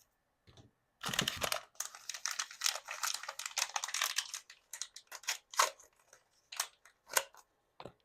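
Hands handling a Mini Brands toy capsule and its plastic packaging: a busy run of crinkling and clicking, then a few separate sharp plastic clicks.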